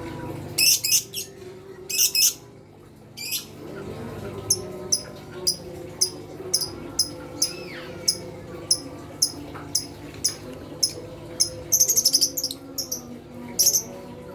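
Lovebirds chirping: a few loud bursts of high, sharp chirps, then a steady run of short chirps at about two a second, with a quick rapid burst near the end. A lovebird flock recording used as a bait call to set other lovebirds calling.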